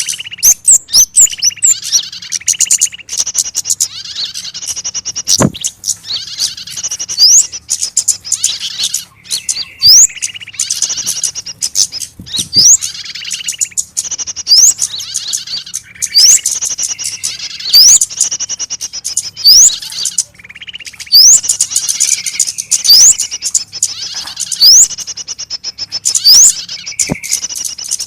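Loud bird-lure recording of small birds' harsh, frantic distress and alarm calls: dense chattering in bursts, broken by quick rising whistles every second or two. It is a 'trapped bird' lure call, the sound of a small bird caught and struggling, which draws other small birds in to mob.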